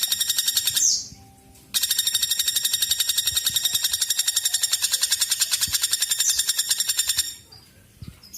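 A woodpecker calling: a fast, even rattle of high, ringing notes. One run ends about a second in, and after a short pause a second run goes on for about five and a half seconds before stopping.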